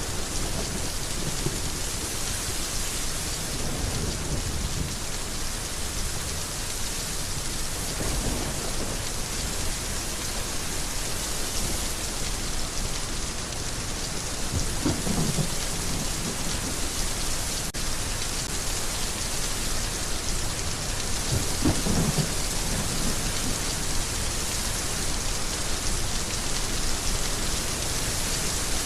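Heavy rain falling steadily, a dense even hiss, with two short low rumbles, one about halfway through and one near the end.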